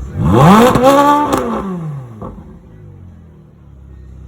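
Sports car engine revved hard once: the pitch climbs quickly, holds for about a second, then falls back toward idle. A few sharp cracks come through the rev and as it drops.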